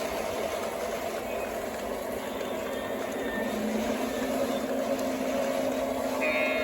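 O gauge model train locomotive running along the track with a long train behind it: steady motor and wheel noise on the rails. A second, lower motor tone comes in and rises slightly about halfway through.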